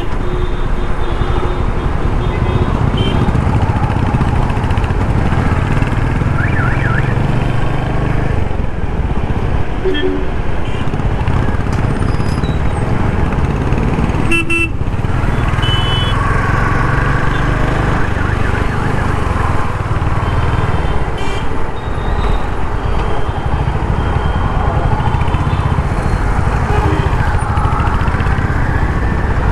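Royal Enfield Hunter 350's 350cc single-cylinder engine running steadily while the bike rides through city traffic, with road noise. Short horn toots from surrounding traffic sound a few times.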